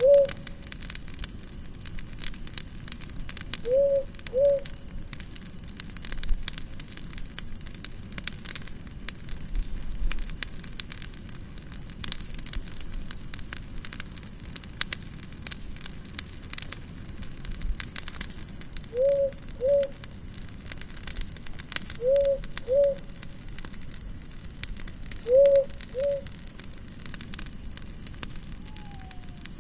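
Campfire crackling and popping steadily. Over it, a low two-note animal call repeats several times, a few seconds apart, and a quick run of about seven high chirps comes once in the middle.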